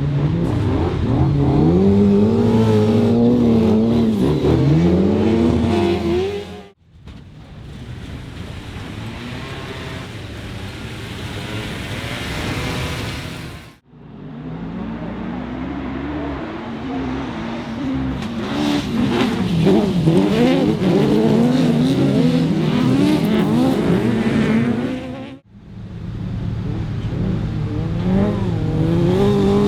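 Autograss racing cars' engines revving hard, their pitch rising and falling again and again. The sound breaks off sharply three times as one short clip cuts to the next, the second clip quieter and more of a rushing noise.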